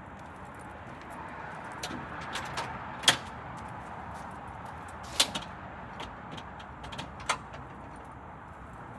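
A handful of sharp clicks and knocks, the loudest about three seconds in and again about five seconds in, over a steady background hiss.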